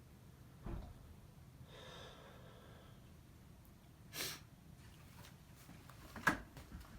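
A dog's short breathy snort a little after four seconds in, with soft knocks near the start and near the end.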